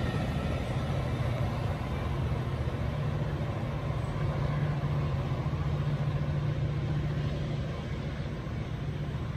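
Metra commuter train pulling away, its F40PH diesel locomotive at the far end running with a steady low drone and the cars rolling on the rails, slowly fading.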